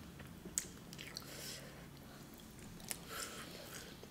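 Faint chewing and lip-smacking of a person eating soft fufu and stew by hand, with two sharp mouth clicks, about half a second in and near three seconds.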